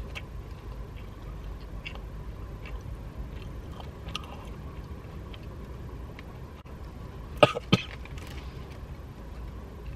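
A man chewing a mouthful of chilli-laden scotch egg crust, with faint wet mouth clicks, then two short, loud coughs about seven seconds in as the heat of the chilli catches him.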